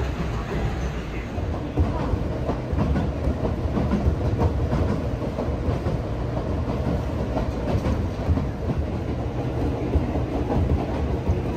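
Kamikōchi Line electric train running along the track, heard from on board: a steady rumble with irregular clicks from the wheels passing over rail joints.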